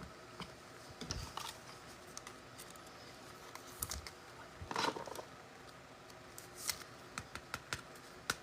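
Faint, scattered light clicks and taps, with brief rustles about halfway through and again a little later.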